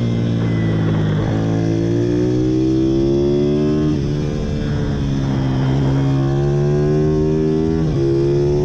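Pit bike's small single-cylinder engine running hard, its pitch climbing steadily and then dropping sharply three times: about a second in, about four seconds in and near the end.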